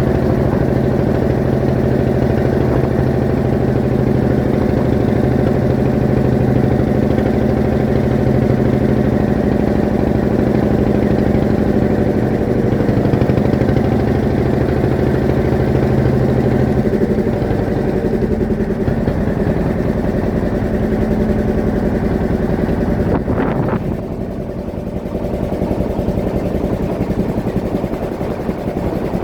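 Fishing boat's engine running steadily, its note shifting a little past halfway and dropping briefly in level about two-thirds of the way in.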